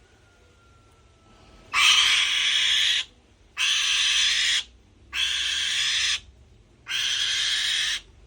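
A bird's harsh, hissing screech, given four times, each lasting about a second, with short gaps between.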